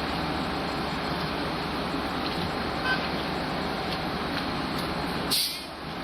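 Idling Long Island Rail Road diesel train with DM30AC locomotives standing at a platform: a steady engine and blower rumble. About five seconds in there is a short, sharp hiss of released air.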